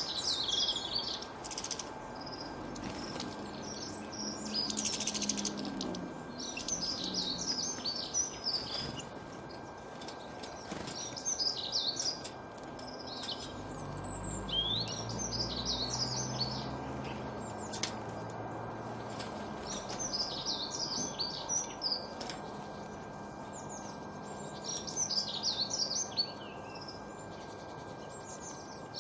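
Birds singing outdoors in short phrases of rapid chirps that come every couple of seconds, over a steady background hiss and a faint constant tone. A low rumble rises and fades about halfway through.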